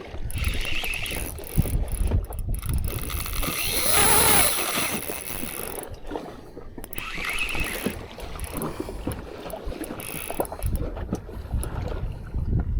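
Wind gusting on the microphone over the steady sea and boat noise of a small fishing boat, with a louder rushing swell about four seconds in.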